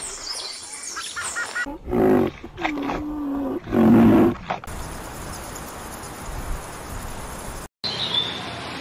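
A large animal calling: a few short high calls, then three loud low calls around the second to fourth seconds, the middle one held on a steady pitch. After that there is a steady noisy background, with a brief high bird chirp near the end.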